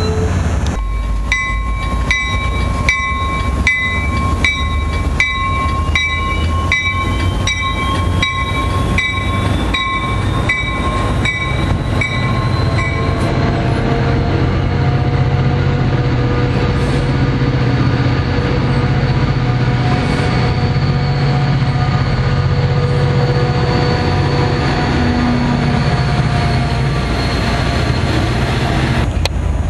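A railroad warning bell ringing about twice a second over the rumble of a passing NJ Transit commuter train, stopping about 13 seconds in. After that comes the steady low drone of a diesel-hauled train running by, with a thin high whine above it.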